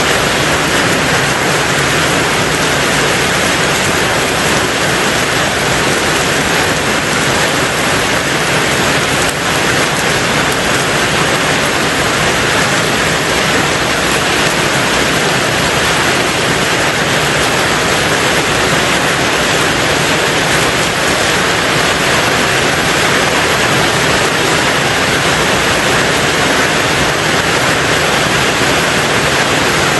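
Heavy rain falling steadily on a tin roof, a dense even hiss with no separate drops standing out.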